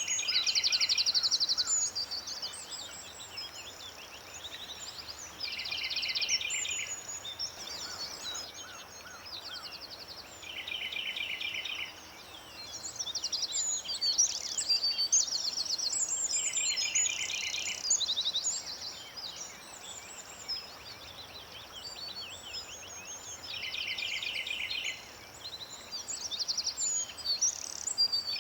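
Several birds singing together: one bird repeats a short, fast trill about every five seconds, among many shorter chirps and whistles from other birds.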